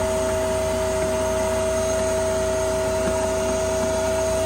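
A machine running steadily in the background: an even drone with a constant whine at two fixed pitches that does not change.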